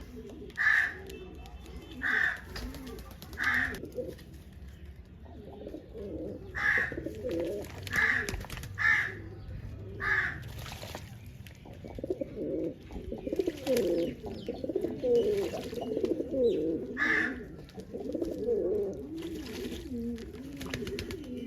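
Pigeons cooing continuously in low, wavering calls, heaviest in the second half. Short, higher, louder calls cut in about eight times, in twos and threes.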